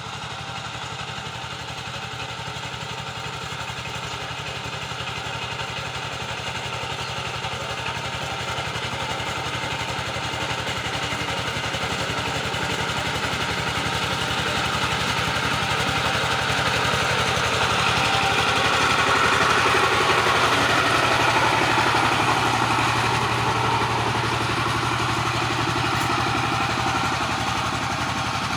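Two-wheel power tiller's engine running steadily, growing louder towards a peak about two-thirds of the way through and then easing slightly.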